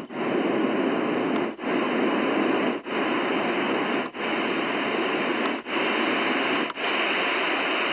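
LectroFan white noise machine playing a steady noise hiss that breaks off in a short gap about every second and a half as it steps through its different fan and white noise sounds.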